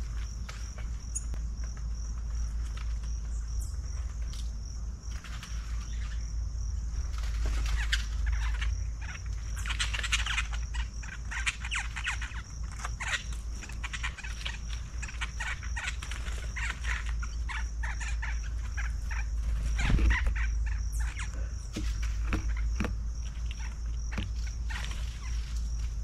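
Several small birds calling in quick bursts of short chirps, sparse at first and then busy through most of the stretch. Behind them runs a steady, faintly pulsing high-pitched whine and a constant low rumble, with one louder low thump about two-thirds of the way through.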